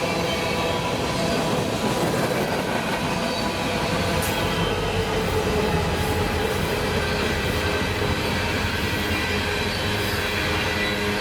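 Freight train rolling past steadily, its steel wheels squealing against the rails over a continuous rumble, with a few sharp clicks from the track.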